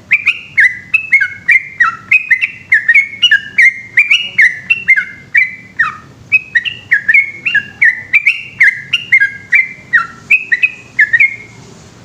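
Bulbul (trucukan) singing a long unbroken run of quick whistled notes, about two a second, each dipping or jumping in pitch. The song stops just before the end.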